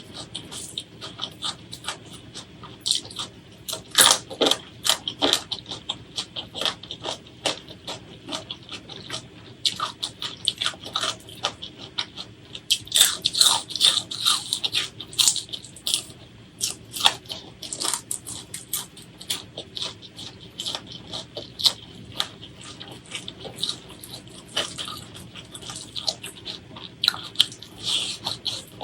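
Close-miked eating: irregular crunchy bites and wet chewing, a dense run of sharp crackles and smacks.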